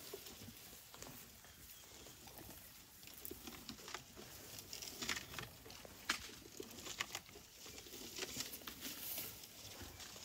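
Irregular snaps and crackles of dry twigs and leaves as elephants browse and move through the bush, with louder clusters around the middle and later on.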